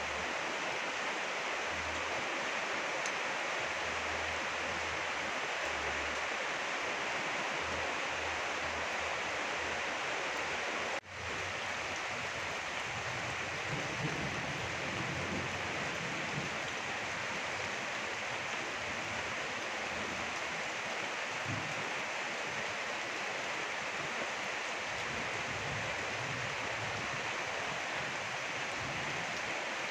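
Steady rain falling, an even hiss, broken by a brief dropout about eleven seconds in.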